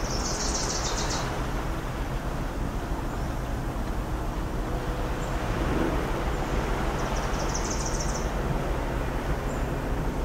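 Coastal ambience: a steady low rumble of surf mixed with distant engine hum. A small songbird gives a high, rapid trill of about a second twice, at the start and about seven seconds in.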